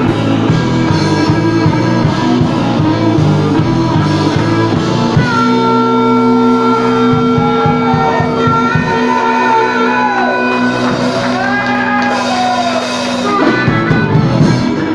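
Live blues-rock band playing: guitar lines bending up and down over held chords and drums.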